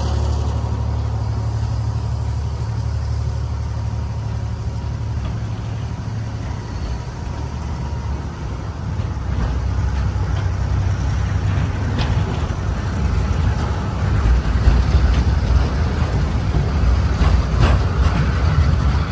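Freight train's diesel locomotive running with a deep, steady rumble, with scattered clicks and clatter that grow denser and louder in the last few seconds.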